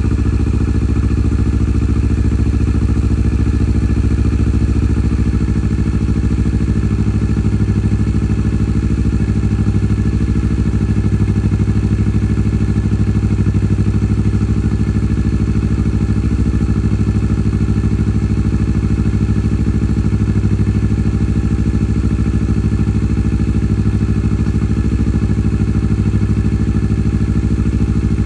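Kawasaki Vulcan S 650's parallel-twin engine idling steadily, left running without revving after an oil change to circulate the fresh oil.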